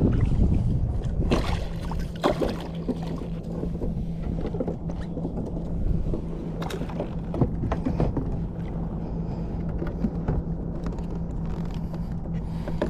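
Water noise around a fishing kayak on the sea, with wind rumbling on the microphone, a steady low hum and scattered short knocks and splashes.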